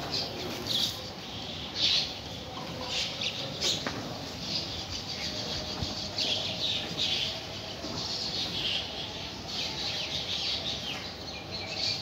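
Small birds chirping and twittering in many short, scattered calls, over a faint steady hum.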